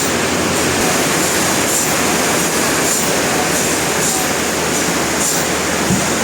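Industrial sawmill machinery running: a loud, steady mechanical din, with brief high hisses recurring every second or so.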